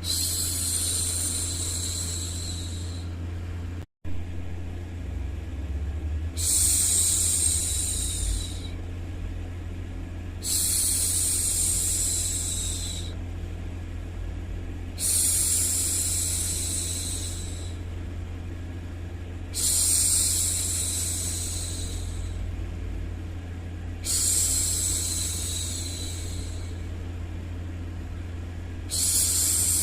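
A woman's voice hushing 'shhh', repeated seven times about every four and a half seconds, each shush lasting two to three seconds, over a steady low white-noise bed. The sound cuts out for a split second about four seconds in.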